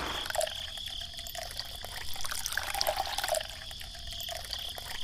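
Water trickling and splashing in small uneven spurts.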